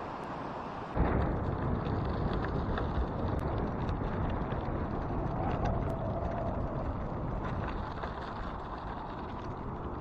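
Cyclocross bike with 32 mm Maxxis Refuse tyres rolling along a gravel trail: a steady rumble of tyres and wind on the microphone that gets suddenly louder about a second in, with scattered small clicks.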